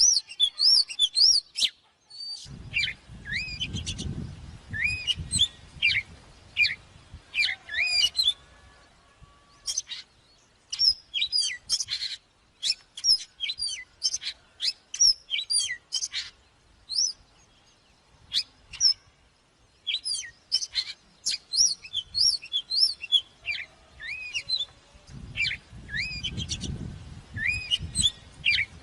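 Oriental magpie-robin singing: quick bursts of varied, high whistled notes and sweeping up-and-down phrases, broken by short pauses.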